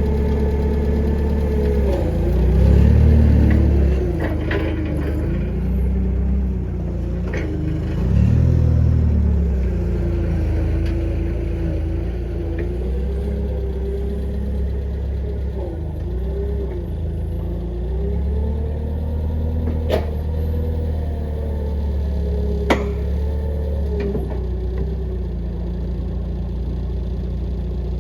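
An engine idling steadily, rising briefly twice in the first ten seconds, with two sharp metallic knocks in the second half.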